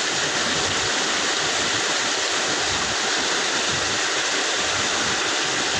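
Steady, loud rushing of water running through a wastewater treatment machine, with no change in level.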